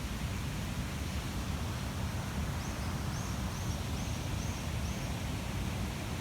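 Steady low rushing noise outdoors, with a small bird calling a run of six short high notes, about two a second, starting a little before halfway through.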